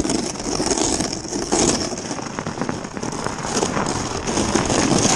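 Something sliding over snow and ice, with a steady rough scraping and rattling.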